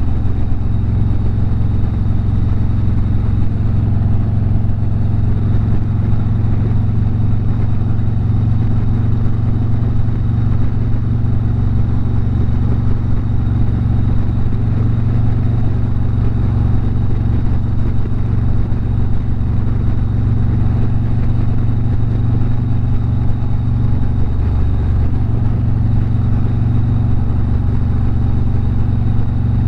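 Harley-Davidson motorcycle engine running steadily under way, a continuous low drone.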